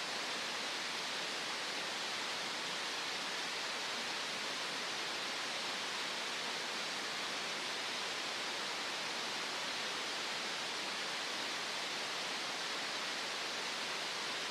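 Green noise: a steady, unchanging hiss, strongest in the upper middle and thin in the bass.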